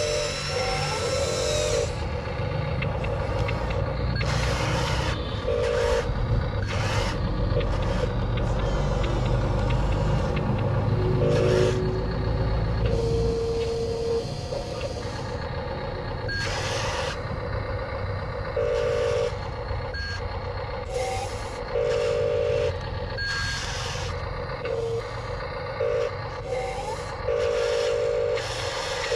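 Remote-control toy wheel loader running, with a steady motor hum and short buzzing beeps like a reversing alarm coming at irregular intervals.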